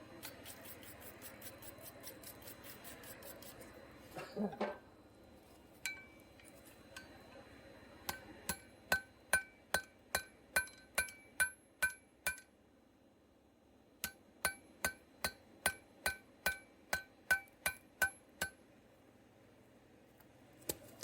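Hammer blows on steel over an anvil-shaped object, each strike ringing out metallically: two runs of steady hammering at about three blows a second, with a pause of about a second and a half between them. A short clatter comes about four seconds in.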